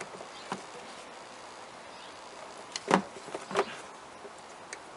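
A few sharp plastic clicks and knocks as the stuck engine air filter is tugged and worked out of its plastic air box, the loudest about three seconds in.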